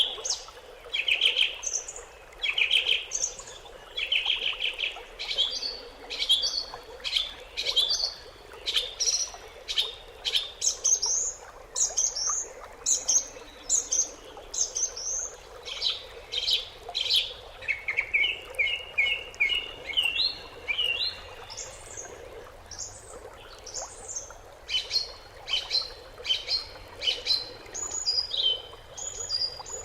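Songbirds chirping, with short high notes repeating in quick phrases and a rapid run of notes a little past the middle.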